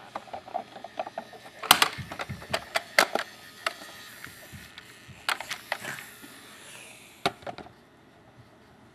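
Irregular knocks and clicks close to the microphone as the camera bumps along riding on top of a plastic Hess toy truck. The knocks thin out near the end.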